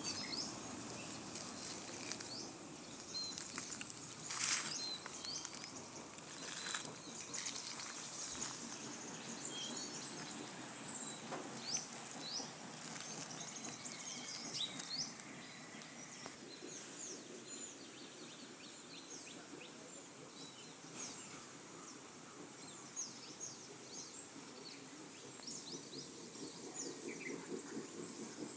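Outdoor countryside ambience: many short, high bird chirps scattered throughout over a steady high insect hiss. A few brief knocks or rustles come between about four and eight seconds in.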